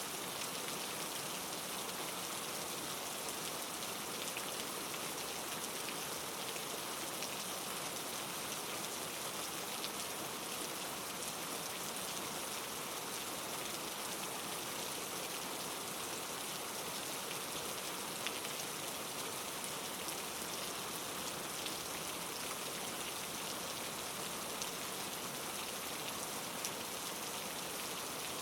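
Steady rain falling and pattering on a surface, an even hiss with the odd sharper drop ticking through it.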